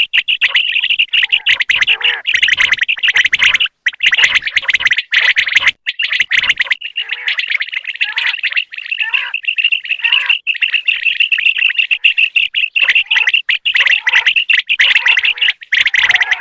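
Male common quail calling over and over: a dense run of rapid, high chirping notes, broken twice by brief pauses in the first half.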